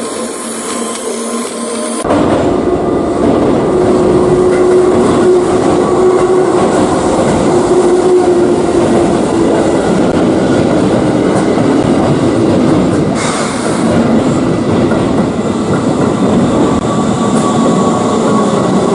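Keihan electric train running on the rails, with a steady motor whine that drifts slightly lower in pitch. About two seconds in it cuts in abruptly, replacing a thinner mechanical whirring.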